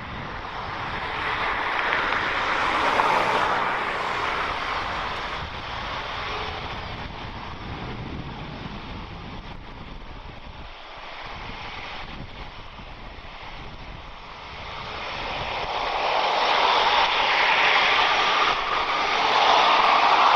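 Jet engines of an Airbus A350-900, Rolls-Royce Trent XWBs, running at takeoff power. The roar swells about two to three seconds in, eases off, then grows louder again from about fifteen seconds in.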